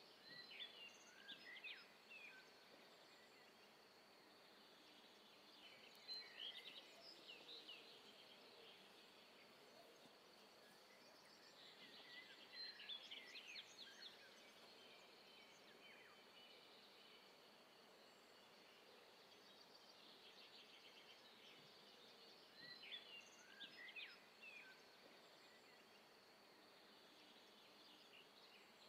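Faint songbird song: short phrases of quick rising and falling chirps about every five to six seconds, over a steady low hiss of outdoor ambience.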